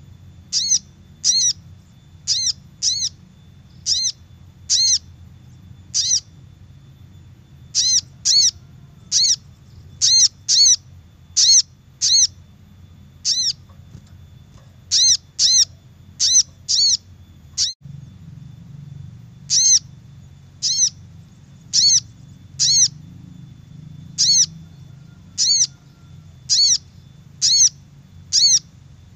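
Little spiderhunter (sogok ontong) calls: a string of short, sharp single notes, one to two a second, with brief pauses. A steady low hum runs beneath.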